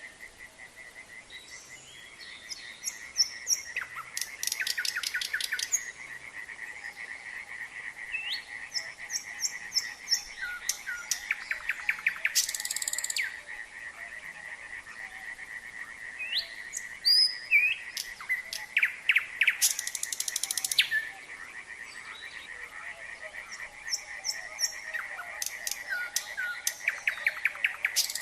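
A nightingale singing in varied phrases of whistles and rapid repeated notes, with a loud burst of fast repeated strokes every several seconds. Under it runs a steady chorus of frogs calling in quick pulses.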